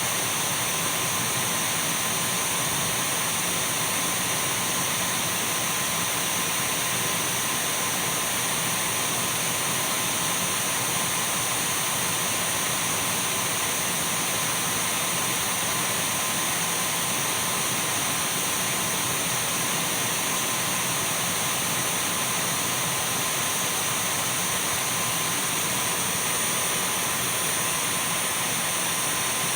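Dyson V12 cordless stick vacuum running steadily: a constant rush of air with a steady high-pitched motor whine that does not change.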